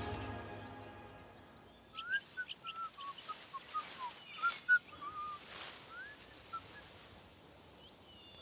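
Background music fading out, then a songbird singing a run of short whistled chirps for several seconds.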